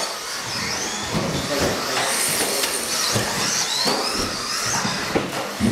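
Several RC race trucks running laps together, their motors giving high whines that rise and fall as they accelerate and brake, with scattered knocks from the trucks on the track.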